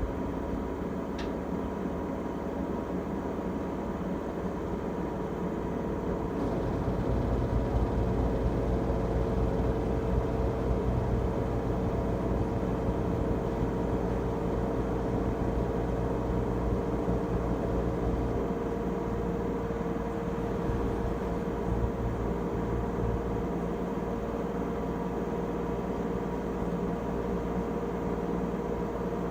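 2006 LG Tromm WD-CR101C front-loading drum washing machine running on its quick-wash cycle: a steady motor hum with a constant whine. The low rumble grows louder about six seconds in and holds.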